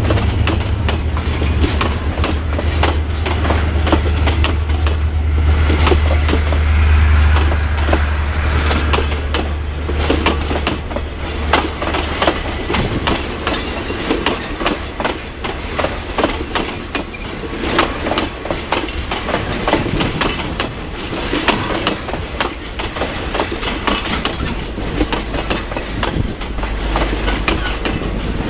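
Train running over jointed track and points, its wheels clicking irregularly, with a low engine drone that fades about ten seconds in.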